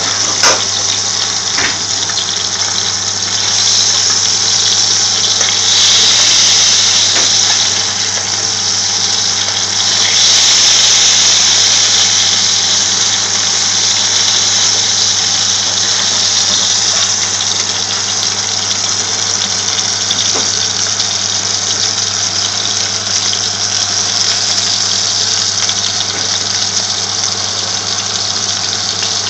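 Lamb-mince shami kebab patties sizzling steadily in shallow vegetable oil in a frying pan, the sizzle swelling louder a couple of times, over a steady low hum.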